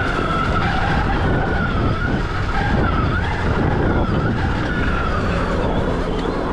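Stark Varg EX electric dirt bike's motor whine, rising and falling in pitch with the throttle over a steady low rumble from the ride.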